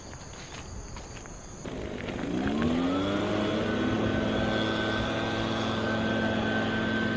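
Crickets chirping, then about two seconds in a louder engine drone comes in. Its pitch rises for about a second and then holds steady under a thin high whine.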